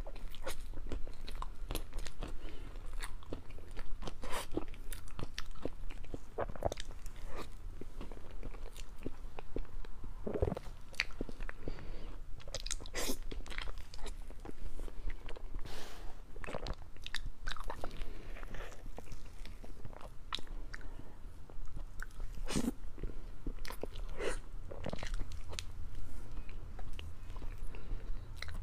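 Close-miked chewing and mouth sounds of a person eating spoonfuls of soft chocolate mousse cake with cherry jam, with many irregular sharp mouth clicks.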